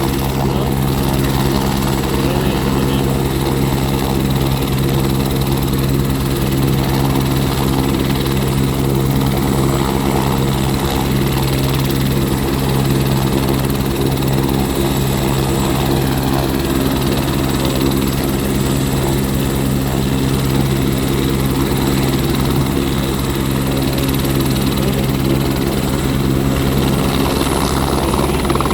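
Helicopter running steadily in flight, its rotor and engine making a constant drone of steady low tones.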